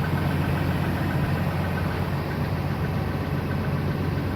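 The 6.7-litre Cummins turbo-diesel of a 2011 Ram 4500 idling steadily, heard from inside the cab.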